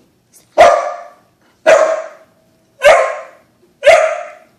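A dog barking four times, about one loud bark a second, at a balloon it is wary of.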